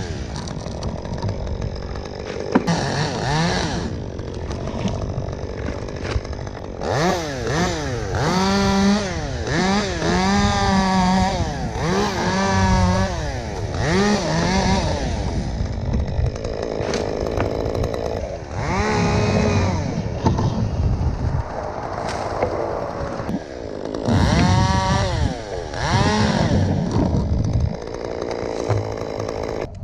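Chainsaw cutting sugar maple limbs, the engine pitch rising and falling again and again as it revs up and bogs into each cut.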